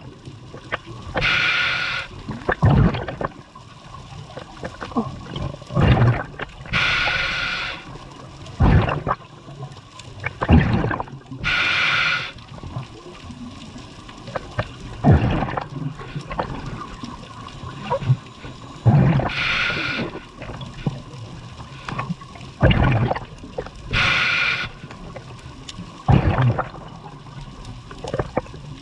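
Scuba diver breathing through a regulator underwater: a hiss of air through the demand valve on each inhalation, five times, alternating with rumbling bursts of exhaled bubbles.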